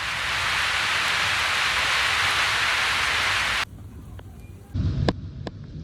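Steady hiss of heavy rainfall that cuts off suddenly about three and a half seconds in. A low rumble and a couple of sharp clicks follow near the end.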